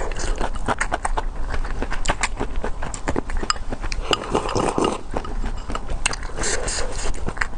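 Close-miked eating sounds of spicy luosifen (river snail rice noodles) being chewed, with many short wet mouth clicks and smacks.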